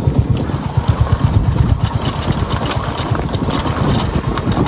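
Motorcycle engine running with a fast low pulsing beat, with some crackling clicks in the second half.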